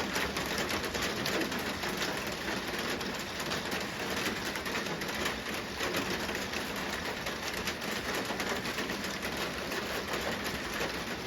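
Heavy rain falling steadily, with many separate drops ticking on a hard surface close by.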